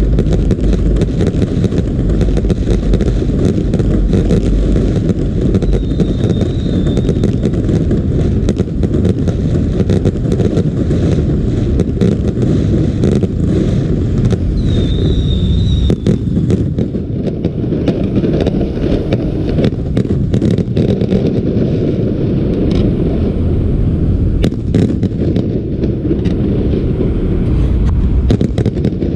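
Fireworks going off continuously: a dense, steady rumble of bursts with many sharp cracks throughout, and a brief high whistle twice, about six and fifteen seconds in.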